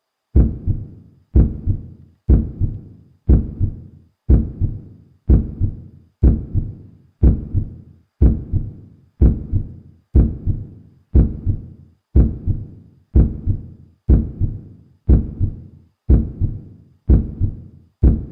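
Evenly spaced low thumps, about one a second, each followed closely by a smaller second beat and dying away before the next.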